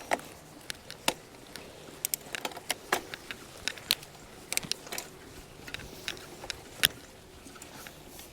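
A scatter of irregular, sharp clicks and light clinks, about a dozen over several seconds, over a faint steady background.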